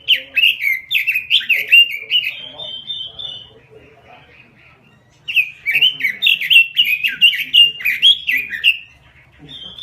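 Pekin robin (red-billed leiothrix) singing vigorously: two fast phrases of loud, sliding whistled notes, each ending in a short, higher trill, with a pause of about two seconds between them.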